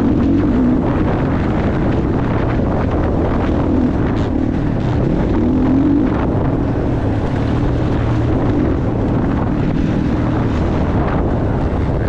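Motocross bike engine running hard around the track, its pitch rising and falling with the throttle, with wind rushing over the microphone.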